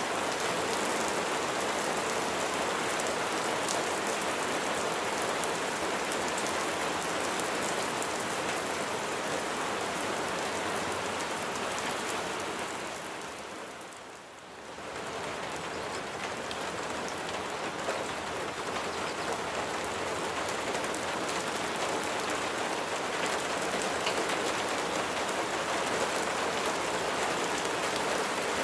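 Steady, dense rainfall with raindrops pattering on a surface. About halfway through the sound fades down briefly and swells back up.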